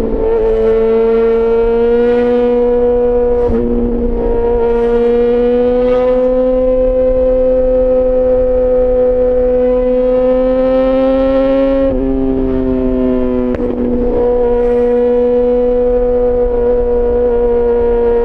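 Yamaha XJ6 S's inline-four engine running through an SC-Project aftermarket exhaust, holding a steady high note under way. The pitch creeps up slowly, dips briefly about twelve seconds in, then holds level again.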